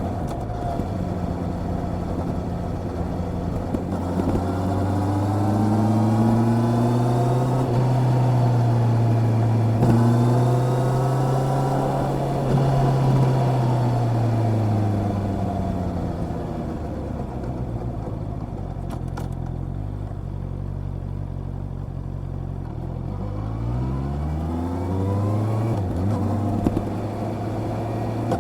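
Honda CB650R inline-four motorcycle engine pulling up through the revs, falling away to a low, steady note, then rising again in short steps as it picks up speed.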